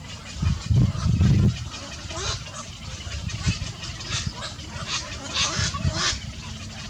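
Small birds chirping in short, repeated high calls. A loud low rumble, like handling or bumping noise, comes about a second in.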